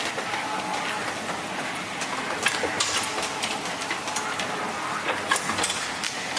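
Steady machine noise with many irregular clicks and knocks.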